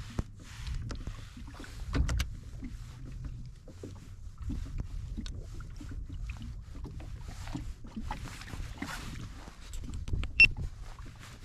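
Water lapping and swishing against a fishing kayak's hull, over a low rumble, with scattered small knocks and clicks. One sharp ringing tap about ten seconds in is the loudest moment.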